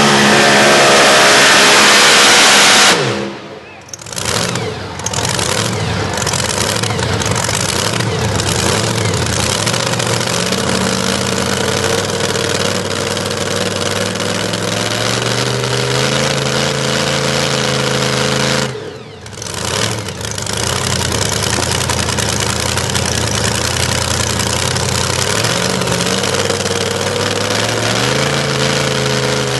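Pulling truck's engine at full throttle under load, cutting off abruptly about three seconds in as the throttle is dropped at the end of the pull. After that, truck engines run at a high idle, stepping up in pitch a few times.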